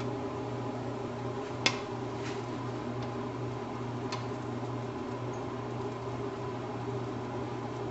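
A steady mechanical hum with a light hiss. One sharp tap comes about one and a half seconds in, and two fainter ticks follow.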